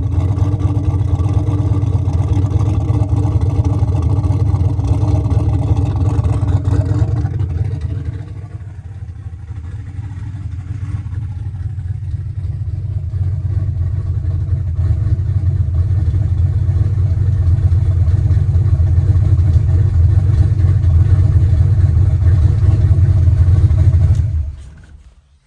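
Turbocharged 383 stroker small-block Ford V8 in a Fox-body Mustang idling, a loud, deep, steady running note. It drops quieter about eight seconds in, builds back up gradually, and cuts off about a second before the end.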